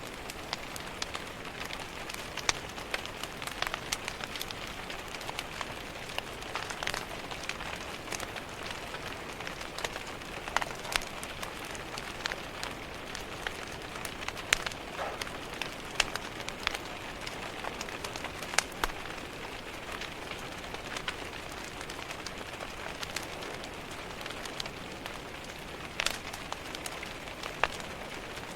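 Steady rain on a window with a wood fire crackling in a fireplace: an even rain hiss, broken by irregular sharp pops and snaps from the fire.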